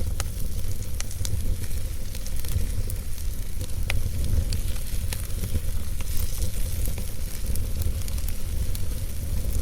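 Campfire crackling, with scattered sharp pops at irregular intervals over a steady low rumble and a fine hiss.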